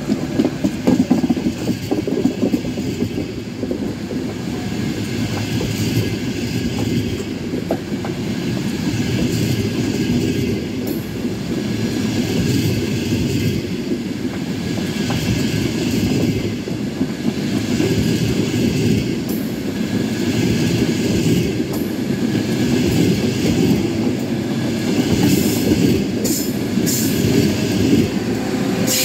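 Frecciarossa high-speed electric train rolling slowly past along the platform: a steady rumble of wheels on rail, with sharp clicks over the rail joints near the end.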